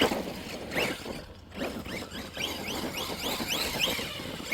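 Electric RC truck driving through snow, its motor whining in short rising spurts, a few a second, over a rough scrabbling noise.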